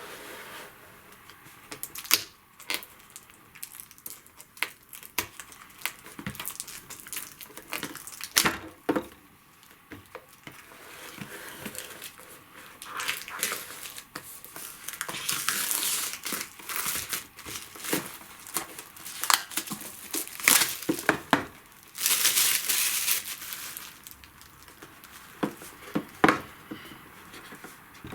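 Packaging on a board game box being torn and crinkled open, with scattered sharp clicks and taps as the box and its contents are handled. There are two longer stretches of rustling in the second half.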